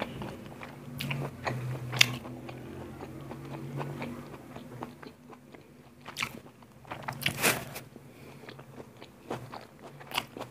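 Close-up chewing and biting of grilled marinated chicken pieces pulled off a wooden skewer, with a few sharp mouth clicks and bites scattered through the chewing.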